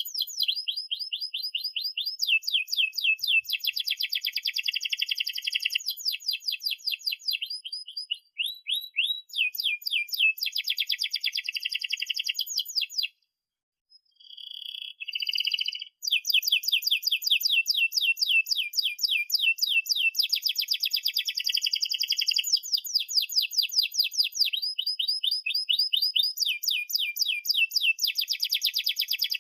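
Domestic canary singing a long rolling song: fast trills of quickly repeated falling notes, high-pitched, with a break of about three seconds near the middle before it takes up the trilling again.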